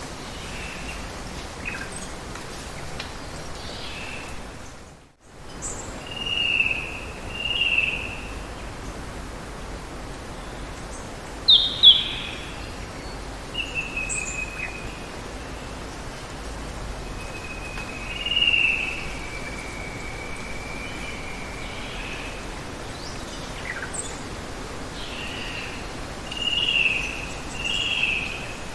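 Steady hiss of running water with birds calling over it: short chirps and whistles, a sharp call about twelve seconds in, and one long drawn whistle in the middle. The background cuts out for a moment about five seconds in.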